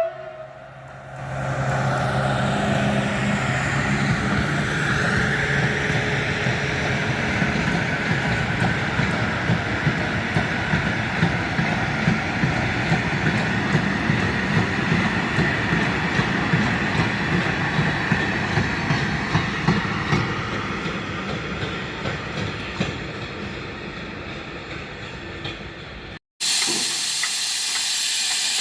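A freight train passing: the diesel locomotive's engine hum at first, then the wagons' wheels clacking in a steady rhythm over the rail joints. About 26 seconds in, the sound cuts abruptly to a steady hiss.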